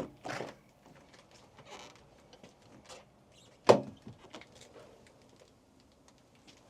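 Pickup truck's driver's door being handled: a sharp latch click at the start, faint small knocks, then a loud door thump about three and a half seconds in.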